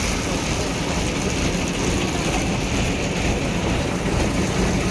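Heavy vehicle engine running steadily under a continuous noisy rumble, with no sudden events.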